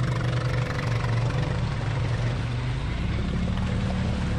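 ATV engine running hard in deep mud, its pitch stepping up about three seconds in as it is revved higher.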